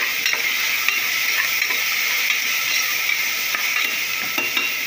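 Onions, tomatoes, coriander and mint frying in hot sesame oil in an aluminium pressure cooker: a steady sizzle, with scattered scrapes and taps as a spatula stirs them against the pot.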